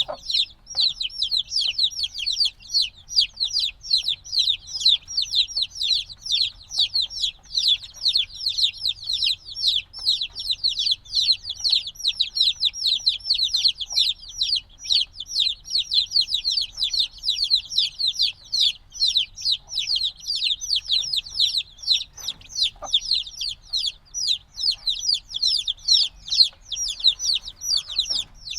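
A brood of chicks a few days old peeping constantly and loudly, many short high descending peeps overlapping without pause, the sound of chicks still wanting the warmth of a mother hen. A few faint taps and knocks sound beneath them.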